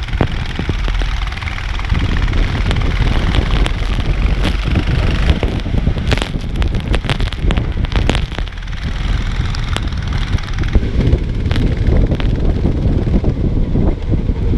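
Kart engine running under heavy wind buffeting on the microphone, with scattered sharp clicks and knocks.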